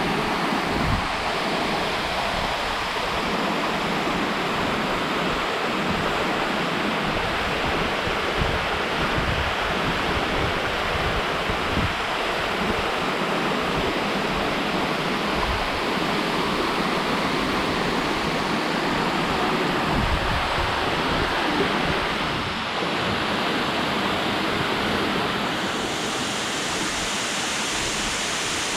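Boikinsky waterfall: water falling and rushing in a steady, even roar, with low wind rumble on the microphone coming and going.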